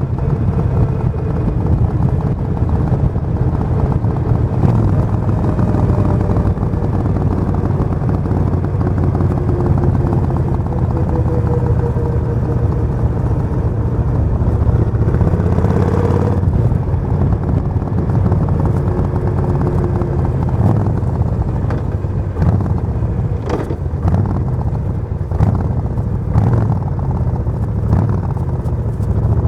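Suzuki VS1400 Intruder's V-twin engine running steadily, its pitch rising briefly about halfway through. A few short sharp knocks come in the last third.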